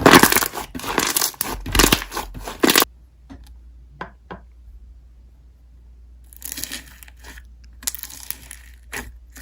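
Slime being squished and stretched by hand, crackling and tearing loudly for about three seconds, then quieter with a few clicks before the crackling picks up again near the end.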